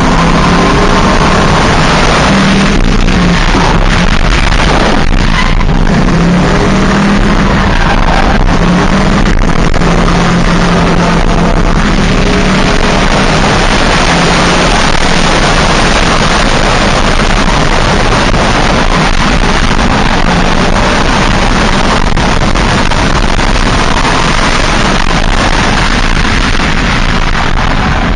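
A 2000 Ford Mustang drift car's engine running hard, its pitch rising and falling as the revs change, under a loud steady rush of noise that swamps the microphone.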